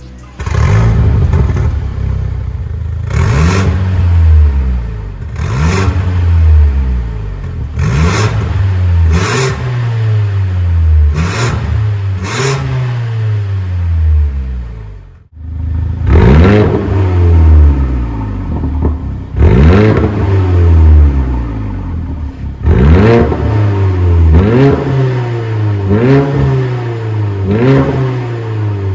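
Mercedes-AMG M133 turbocharged four-cylinder revved again and again through an MS-R valved cat-back exhaust. Each blip rises and falls in pitch every two to three seconds, with sharp cracks on several of them.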